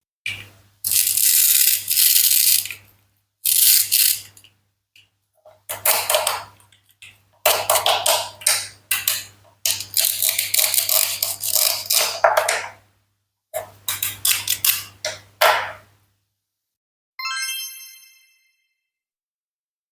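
Toy fruit and vegetables being cut with a toy knife: a string of short noisy cutting sounds with gaps between, then one bright chime near the end.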